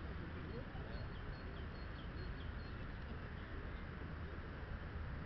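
Small birds chirping, a quick series of short high notes and a few falling ones, faint over a steady low outdoor rumble.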